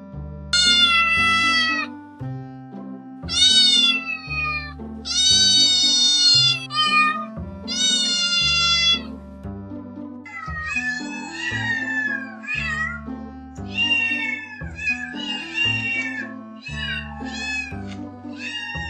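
Cat meowing: about five long meows falling in pitch, then from about ten seconds in a quicker run of shorter, wavering meows, over background music.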